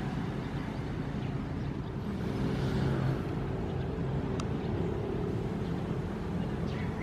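Ocean waves: a steady low rumble of surf with a low droning hum underneath, swelling as a wave washes through about two to three seconds in.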